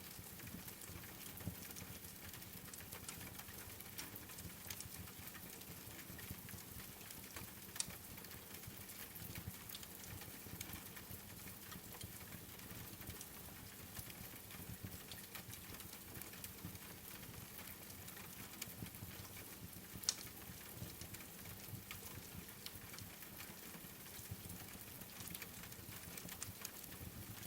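Steady, faint rain patter mixed with the crackle of a wood fire: many small scattered clicks and pops, with two sharper pops, one about eight seconds in and one about twenty seconds in.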